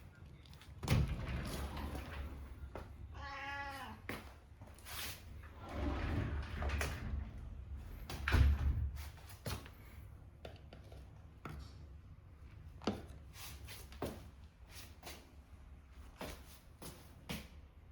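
Domestic cat meowing: one clear, drawn-out meow about three seconds in, among scattered clicks and a few low thumps.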